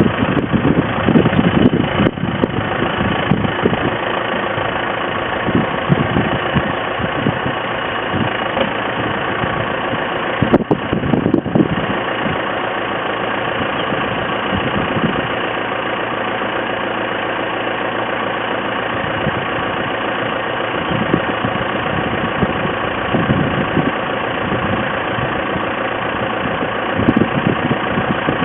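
Tractor engine running steadily at idle, with brief louder surges about two seconds in and again about ten seconds in.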